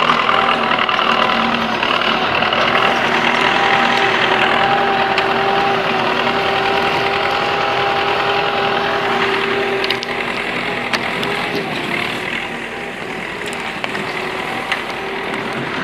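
YuMZ tractor's diesel engine working under load, a loud, steady note while the tractor drags a felled tree through snow. It eases off a little about ten seconds in.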